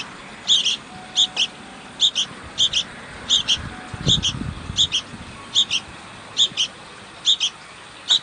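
A bird calling a repeated two-note chirp, the pairs coming evenly about every three-quarters of a second. A brief low rumble sounds about four seconds in.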